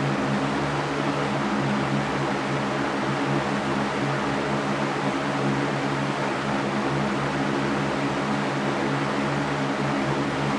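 Electric fan running steadily: a constant rush of air with a low motor hum beneath it.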